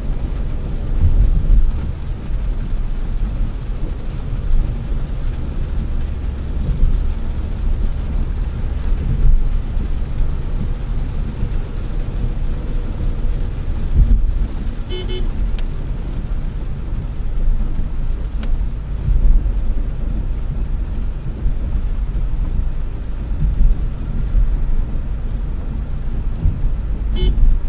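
Steady low rumble of a Honda Elevate driving on wet roads, heard inside the cabin, with engine and tyre noise under an even hiss. Two brief tones cut in, one around the middle and one near the end.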